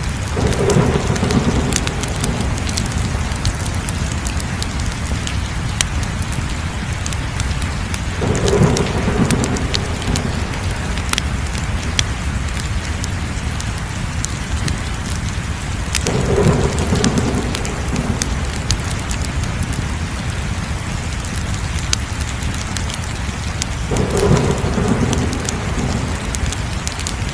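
Fire crackling, with sharp pops over a steady hiss, and a deeper swell that comes back about every eight seconds.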